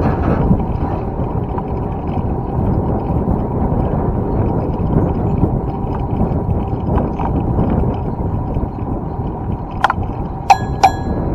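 Steady wind rush on the microphone and road noise while riding a bicycle. Near the end come a few short, sharp metallic clicks, one of them briefly ringing.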